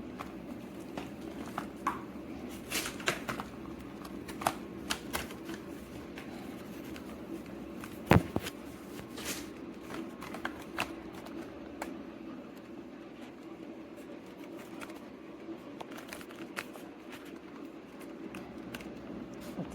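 Dyson Ball Animal 3 upright vacuum cleaner running with a steady hum, overlaid by irregular small clicks and rattles and one sharp knock about eight seconds in.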